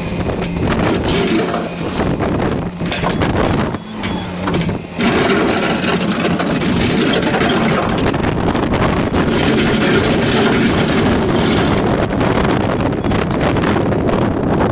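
Heavy machinery working stone track ballast on a farm track: an engine running under dense crunching and scraping of stone, with wind on the microphone. The sound starts abruptly and grows denser about five seconds in.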